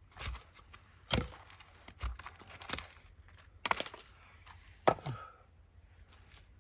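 Firewood being split: a series of sharp chops and knocks of a blade striking wood, about six blows at uneven spacing.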